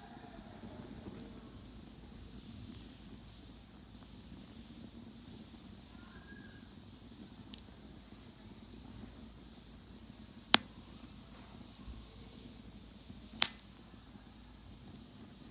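Wood campfire burning, a soft steady crackle and hiss, with two sharp loud pops from the burning wood about three seconds apart in the second half.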